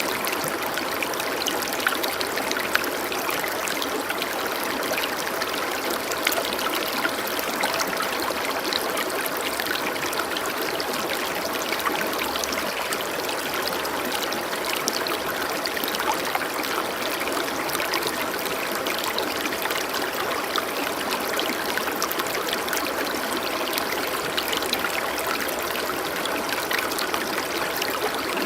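Running water of a stream, flowing steadily without a break.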